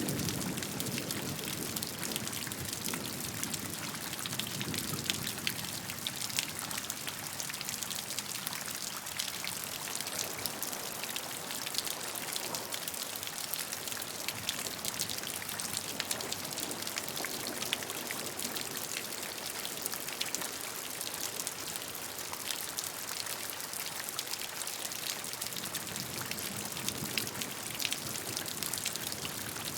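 Steady rain, with many separate drops ticking through a constant hiss and a deeper wash swelling near the start and again near the end.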